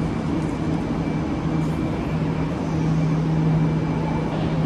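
Steady mechanical hum of a passenger train standing at the platform, its low drone dropping out for about two seconds and then returning.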